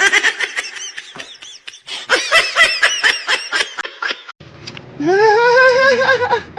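Someone laughing in quick, repeated bursts, then about five seconds in a single long, held vocal cry.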